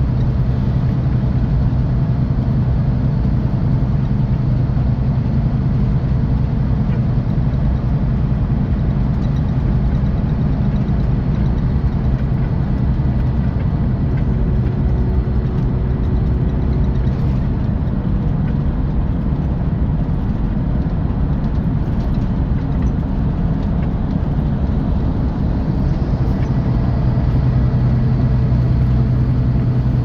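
Scania OmniExpress 360 coach's six-cylinder diesel engine running steadily, a low hum with road noise, heard from inside the coach.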